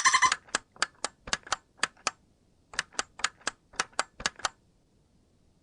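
Dolphin clicking: a rapid buzz of clicks ends just at the start, then come sharp separate clicks, mostly in quick pairs, with a couple of short pauses.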